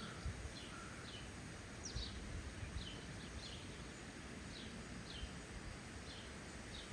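Small songbirds chirping: a string of short, high, falling chirps, about one or two a second, over a low, steady outdoor background noise.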